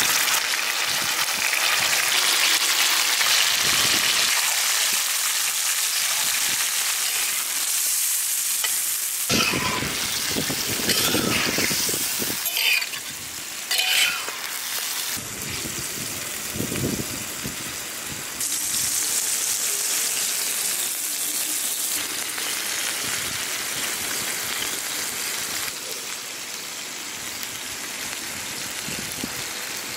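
Masala-marinated octopus pieces sizzling and frying in hot oil on a dosa griddle, a steady crackling hiss. A few sharp scrapes or knocks of a spatula stirring them come in the middle.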